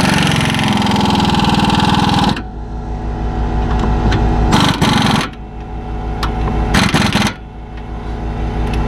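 Impact wrench run in forward on the 19 mm nut of a new outer tie rod end: one long run of about two seconds that falls in pitch as the nut runs down and hammers, then two short bursts about four and a half and seven seconds in as it snugs the nut. A steady low mechanical hum runs underneath.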